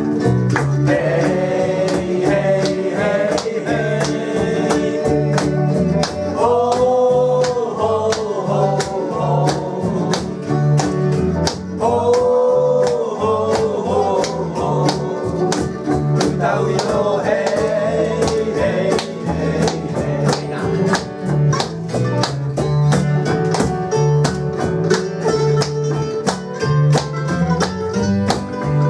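Live acoustic guitar strummed in a steady rhythm with a voice singing long held notes, a pop song played live by a small duo.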